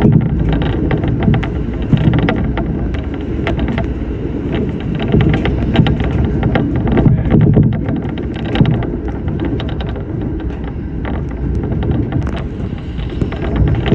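Shinano Railway SR1-series electric train running along the line, heard from inside at the front: a steady low rumble of wheels on rail with frequent sharp clicks and knocks.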